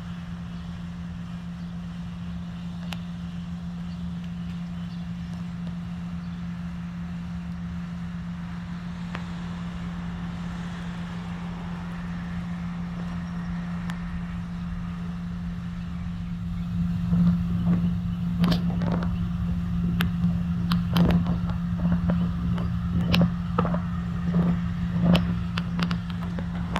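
Bees buzzing in a flowering magnolia tree, a steady low hum throughout. From about two-thirds of the way in, it grows louder, with a run of sharp clicks and knocks over it.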